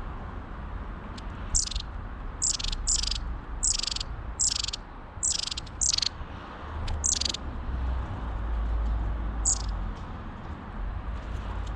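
A small garden bird calling in short, high chirps that each slide sharply downward: about nine in quick succession, then a single one a couple of seconds later.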